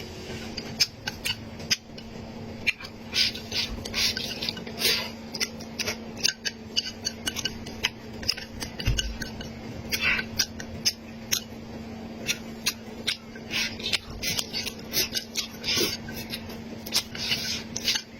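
Close-up eating sounds: crunchy chewing and biting, with many short sharp crackles and clicks several times a second. A steady low hum runs underneath.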